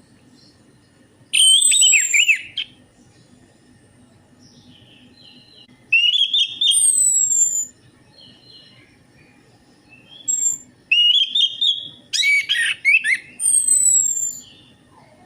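Orange-headed thrush (anis merah) singing loud, varied whistled song phrases with sharp downward-gliding whistles. The phrases come in bursts with pauses between, the longest near the end.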